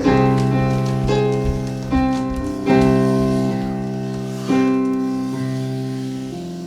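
Slow piano chords, each struck and left to ring and fade, with a new chord about every one to two seconds.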